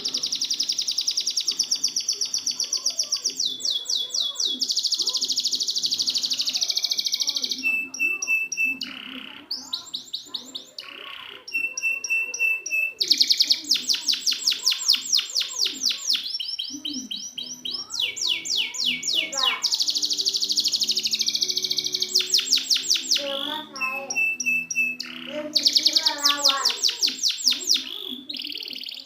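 Canary singing a long run of very fast trilled phrases, each a rapid string of repeated high notes that switches to a new phrase every second or two. This is master song used to coax silent canaries into singing.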